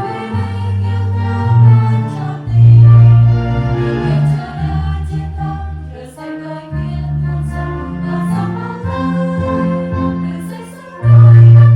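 Catholic hymn sung by a choir over sustained keyboard chords, with a strong bass line that swells loudly about two and a half seconds in and again near the end.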